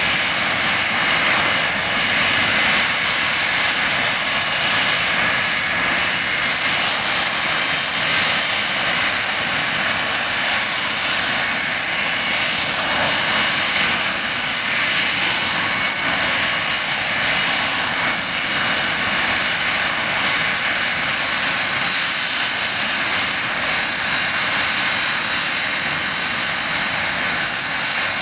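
Hawker Siddeley Nimrod's Rolls-Royce Spey turbofan engines running steadily during a ground run: a loud, even rush with a steady high whine.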